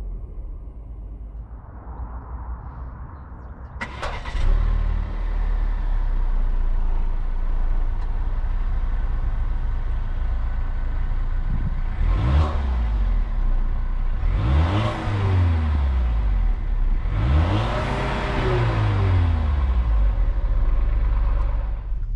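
2020 Volvo V60 T5's 2.0-litre turbocharged four-cylinder engine revved while parked. It first drops back toward idle, then after a sharp click about four seconds in it idles with a low rumble at the exhaust and is blipped three times, each rev rising and falling, the last the longest.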